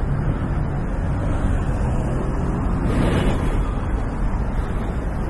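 A motor vehicle's engine running steadily under a rumble of wind noise on the microphone.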